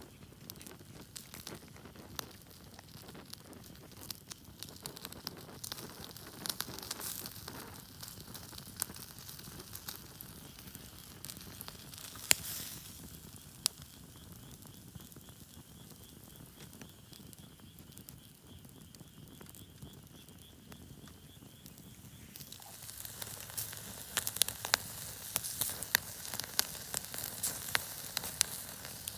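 Wood campfire crackling, with scattered sharp pops over a soft hiss; the pops come thicker and louder for the last several seconds.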